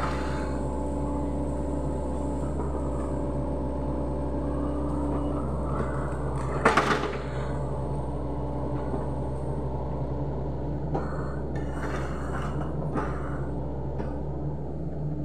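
Sany SY75C excavator's diesel engine running steadily at working revs, with one loud sharp crack about halfway through and a few smaller knocks and clatters near the end.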